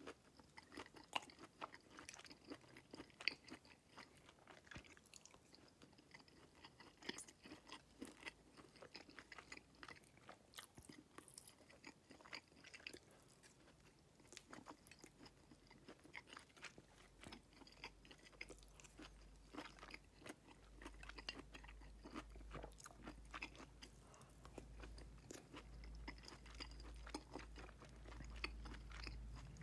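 A person chewing and biting mouthfuls of soup with sausage, chicken and vegetables: soft crunches and many small irregular clicks. A low steady hum comes in about halfway through.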